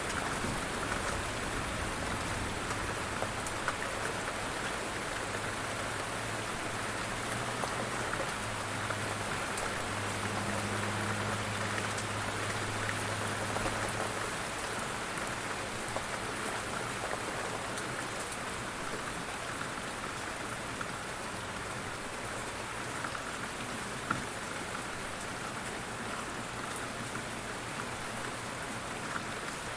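Steady rain falling, a dense even patter of raindrops on a surface. A low hum comes and goes underneath during the first half.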